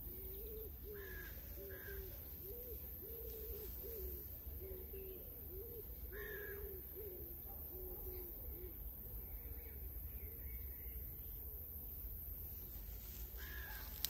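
Birds calling: a quick run of short, low cooing notes for most of the first nine seconds, with a few brief harsher calls, over a steady low rumble.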